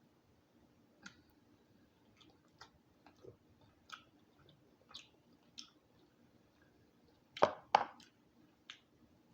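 Close-miked chewing of slow-cooked silkie chicken, soft wet mouth clicks and lip smacks scattered through, with two louder smacks about seven and a half seconds in.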